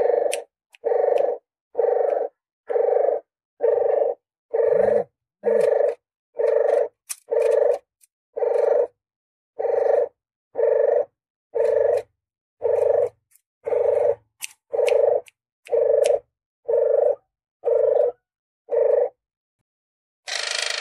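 Puter geni (barbary dove) cooing call played as a hunting lure, one short coo about every second, repeated evenly about twenty times. The coos stop shortly before the end, and a harsh, noisy rasp begins.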